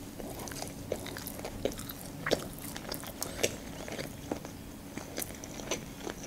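Close-miked chewing of a mouthful of California sushi roll coated in red flying-fish roe, with the mouth closed: soft, irregular mouth clicks, several a second, a few louder than the rest.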